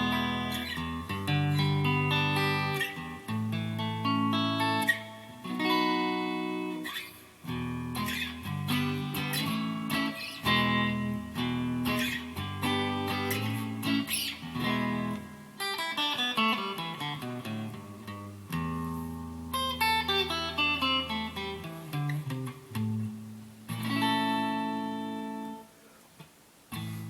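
Donner DST-200 electric guitar played on its neck pickup (five-way switch position 5): ringing chords alternating with picked single-note lines, including descending runs in the second half.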